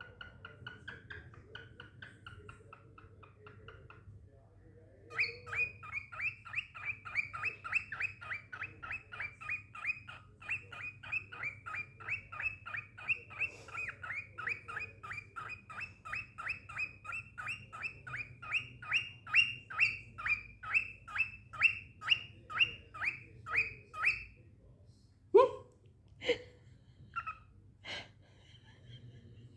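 Cockatiel calling: a short warbling whistle at first, then a long run of sharp chirps repeated fast and evenly, about three a second, for some twenty seconds, ending in a few single calls.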